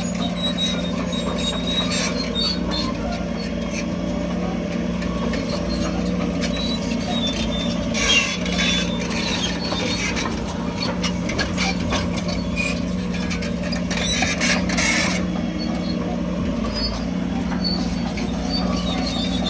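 Bulldozer's diesel engine running steadily under load, with metallic squeaks and clanking from its crawler tracks, loudest about eight seconds in and again near fifteen seconds.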